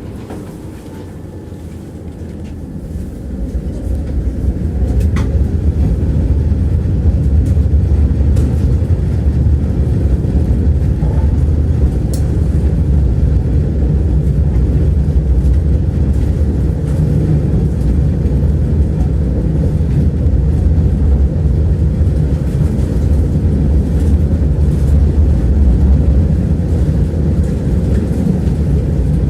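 Tram riding along its rails, heard from inside the passenger car: a steady low rumble of wheels on track. It grows louder over the first few seconds, then holds, with an occasional faint click.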